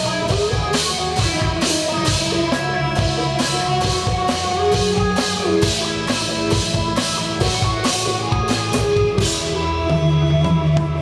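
Live rock band playing: drum kit with cymbals driving a steady beat under electric guitar and bass. About nine seconds in the cymbal hits stop and a low chord is held.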